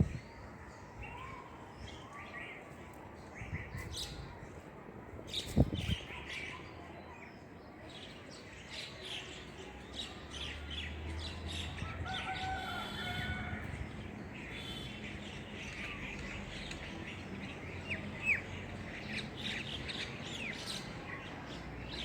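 Small birds chirping and calling in short, scattered notes and trills, with a single sharp knock about five and a half seconds in and a faint low hum in the middle.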